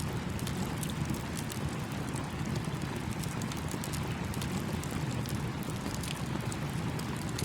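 Campfire crackling with many small irregular pops over the steady rush of a small stream.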